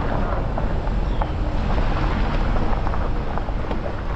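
Jeep Gladiator driving on a backroad: a steady low rumble of engine and road noise with wind buffeting the microphone and scattered small ticks.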